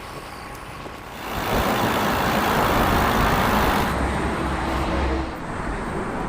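A motor vehicle passing close by on the road: tyre and engine noise swells about a second in, peaks, then fades into a lower rumble.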